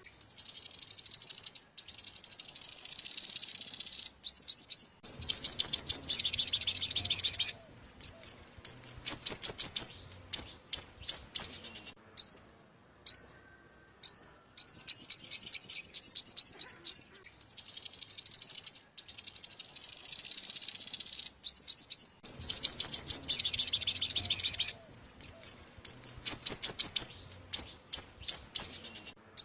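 Sunbird song: long, rapid, high trills, each followed by strings of sharp separate chirps. The same sequence repeats about every fifteen seconds, as a looped lure track for trapping.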